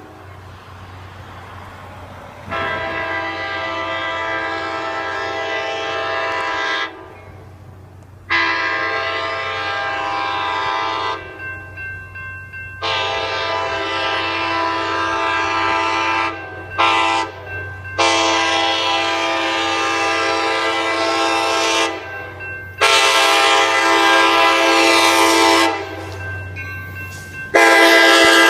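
An ACE commuter train's locomotive air horn blows a chord in a series of long blasts broken by a few short toots, over a steady low rumble from the approaching train. Near the end the train reaches and passes with a loud rush of engine and rail noise.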